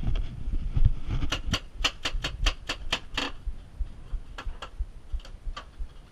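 Paintball fire under a pinned-down position: a quick string of sharp cracks, about five a second, starting about a second in and lasting some two seconds, then scattered single shots. Low thumps sound near the start.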